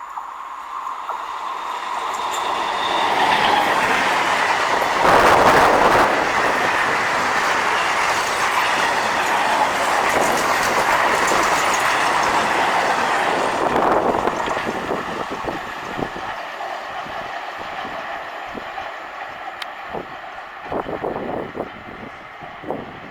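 Passenger train passing on a curve. It grows louder over the first few seconds and is loudest about five to six seconds in. A steady wheel squeal from the curve runs under the rumble of the train. As it draws away, the wheels click over the rail joints and the sound fades.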